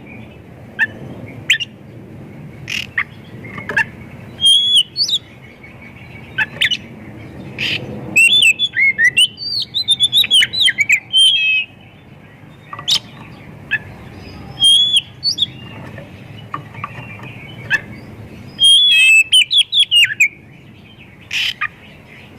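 Oriental magpie-robin (kacer) singing in loud bursts of sharp chirps, whistles and fast gliding notes with short pauses between, a varied song full of mimicked phrases of other birds.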